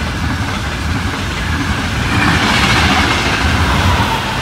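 Frecciabianca passenger coaches rolling past on the near track: a steady rumble of wheels on rail that grows louder about two seconds in.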